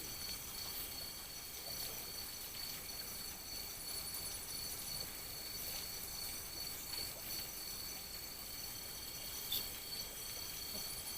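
Night chorus of crickets and other insects, trilling steadily at several high pitches, with a pulsing trill that comes and goes. There is one short tap about nine and a half seconds in.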